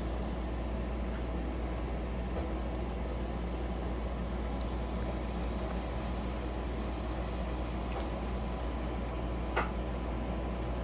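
Steady low room hum with a thin steady tone, broken by a few faint clicks, the clearest one near the end.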